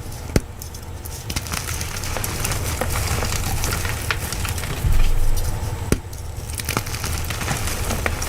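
Chalk being crushed, with dense crunching and crackling and a few sharper snaps. The crunching gets louder about five seconds in.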